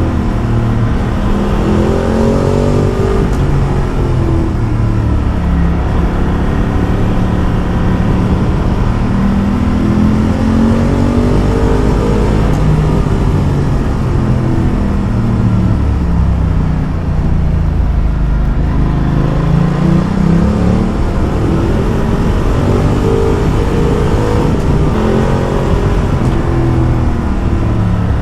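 Ducati Multistrada motorcycle engine under way, its note rising and falling again and again as the throttle is opened and eased off, with a steady rush of wind and road noise underneath.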